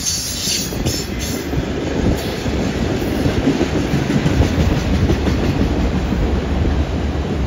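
Enclosed autorack freight cars rolling past, their steel wheels running steadily on the rails, with a few sharp clicks in the first second or so.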